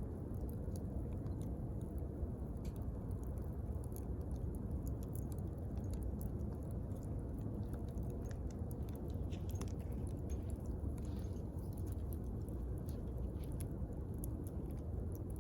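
Wood bonfire burning, with frequent irregular crackles and snaps over a steady low rush of the flames.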